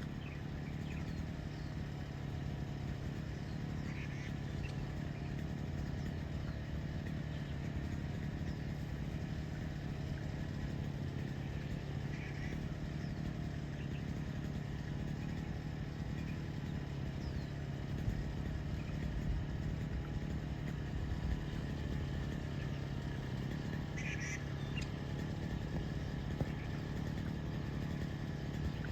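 Steady low engine-like drone with a wavering hum, and a few faint short chirps spread through it.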